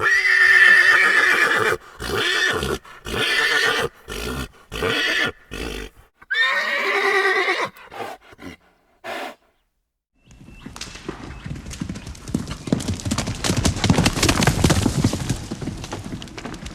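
A horse neighing: a long, broken-up whinny, then a second shorter one about six seconds in. After a brief pause, hoofbeats come in, growing louder and then fading away.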